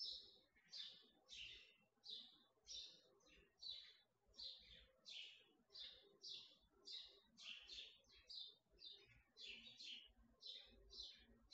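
A bird chirping steadily and faintly: a run of short, high, downward-sweeping chirps, about two a second.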